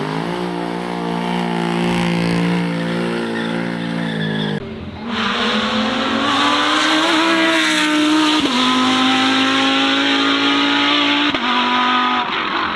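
High-performance car engines held at high revs while the tyres squeal through a drifting turnaround. A steady engine note gives way abruptly, about five seconds in, to a second car whose engine pitch rises and falls over loud tyre squeal.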